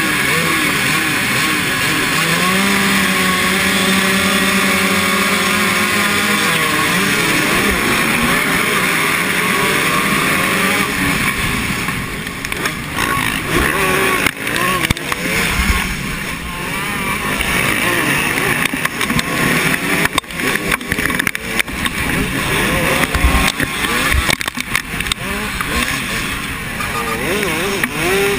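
Motocross bikes racing, their engines revving up and down as they go through the gears and pass by.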